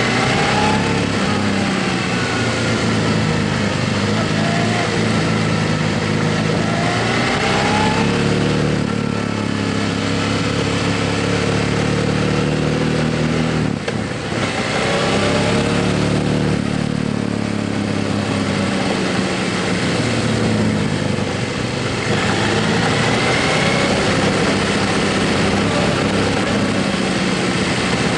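Motorcycle engine running under way, its pitch rising several times as it accelerates, with a brief drop in loudness about halfway through, over a steady rushing noise.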